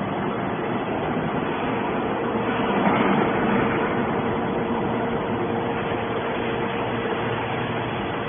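Hydraulic metal scrap baler running: a steady mechanical din with a faint constant hum.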